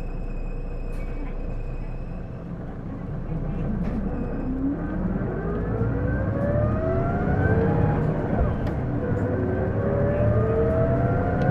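Isuzu Erga city bus (PJ-LV234L1) heard from inside, pulling away: from about four seconds in a whine climbs in pitch with speed, drops back at a gearchange about eight seconds in, and climbs again. This whine on every acceleration is the bus's abnormal noise, which the owner suspects comes from the transmission.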